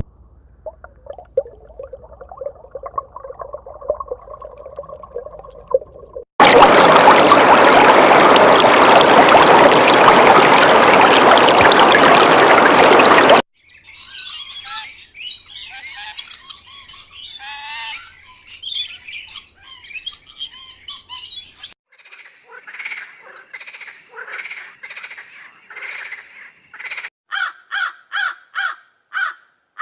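A run of separate animal-sound clips. A faint low call comes first, then a loud steady rush of noise that stops suddenly, then busy high bird chirps and squawks, and near the end a quick series of evenly repeated calls, about two a second.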